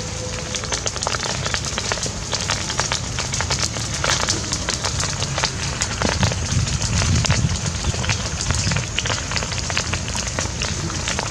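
Open fire burning, with many irregular crackles and pops over a steady low rumble.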